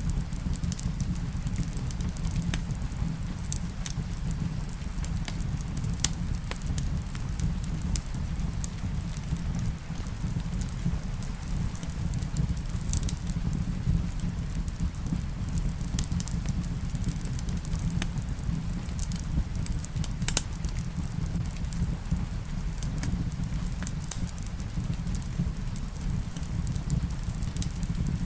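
Fireplace crackling, with sharp pops scattered irregularly throughout, over a steady low rumble and a soft hiss of rain.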